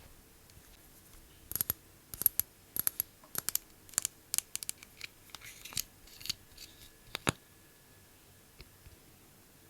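A quick, irregular run of sharp clicks and snips, about twenty in some six seconds, from small makeup tools and cases being handled. It stops a couple of seconds before the end, leaving only one faint tick.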